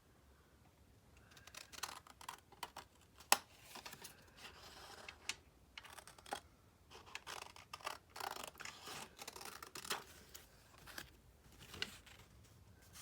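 Scissors snipping paper, with paper rustling and handling clicks. It starts about a second and a half in and carries on in uneven bursts.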